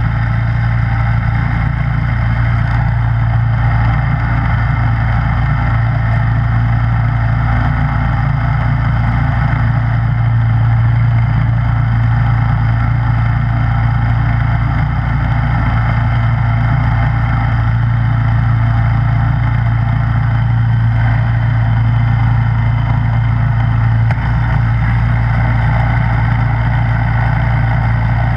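Snow blower's small gas engine running steadily, with the rushing of the auger and impeller throwing snow.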